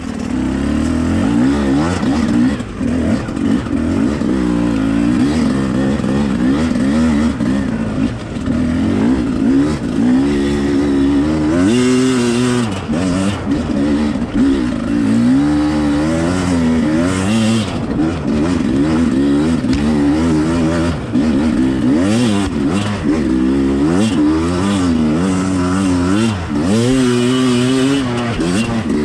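Enduro dirt-bike engine revving up and down continually as it is ridden over a trail, its pitch rising and falling every second or two.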